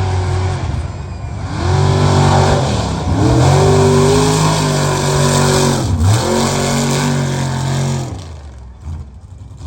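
Mega mud truck engine revving hard under racing load, its pitch climbing and falling several times, with a quick drop and recovery about six seconds in, then fading near the end.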